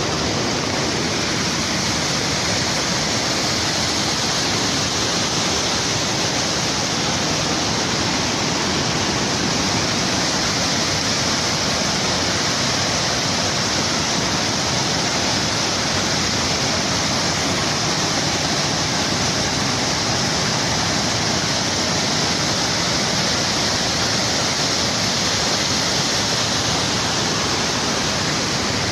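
Rushing water of a rain-swollen mountain torrent, running as a steady, unbroken rush at a constant level.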